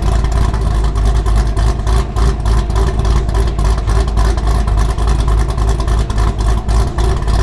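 Car engine and exhaust running loudly and steadily, with a rapid pulsing.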